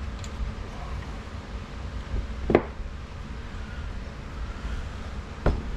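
Two sharp knocks about three seconds apart, the first the louder, from tools or parts being handled on a workbench, over a steady low rumble.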